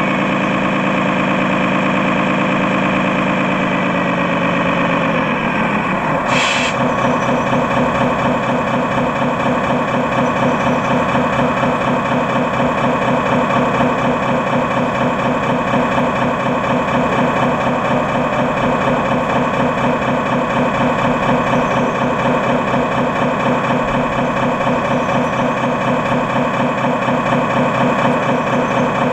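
RC scale truck's electronic sound module playing a diesel truck engine sound. The pitch falls from revving to idle over the first six seconds, then settles into a steady, pulsing idle, with a brief hiss about six seconds in.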